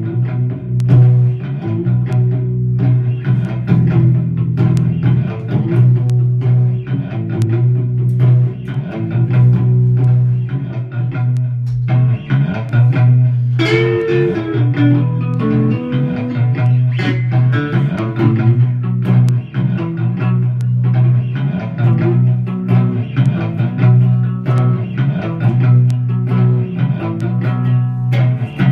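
Guitar playing a heavy blues riff: repeated plucked notes over a steady low droning note, with a note bent upward about fourteen seconds in.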